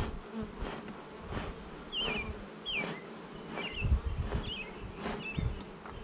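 Honey bees buzzing steadily around an open hive. Short high chirps repeat about once a second over the buzz, with a few soft low knocks.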